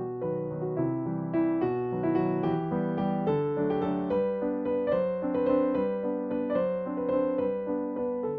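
Background piano music: a gentle melody of held notes over a soft accompaniment.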